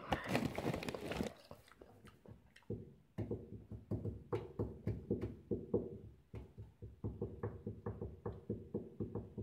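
Close-up chewing of crunchy corn-and-potato snack fries, a steady run of about three chews a second, after a brief rustle at the snack bag at the start.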